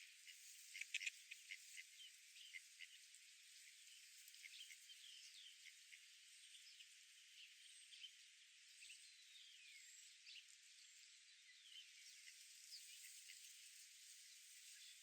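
Faint outdoor birdsong: small birds chirping and giving short downward-sliding calls over a steady soft hiss, with a quick run of sharp chirps about a second in.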